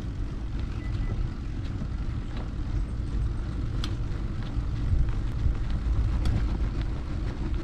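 Mountain bike rolling along a dirt trail, with wind rumble on the microphone and a few faint ticks.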